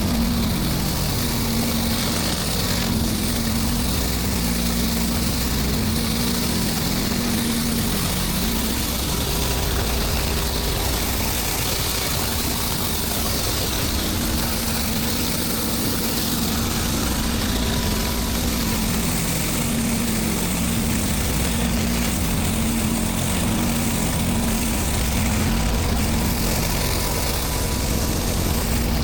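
Gas-engine pressure washer running steadily, with a constant hiss of spray, cleaning a driveway.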